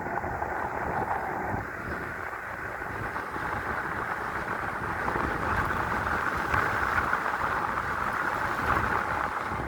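Wind rushing over the microphone of a rider on a moving 5,000-watt dual-motor electric bike, with the bike's road noise underneath; it grows louder about five seconds in.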